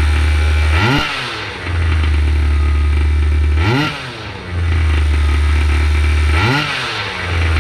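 The gas two-stroke engine of a Primal R/C Raminator 1/5-scale monster truck idling steadily, blipped up to about quarter throttle three times, each a quick rise and fall in pitch, during its break-in heat cycles.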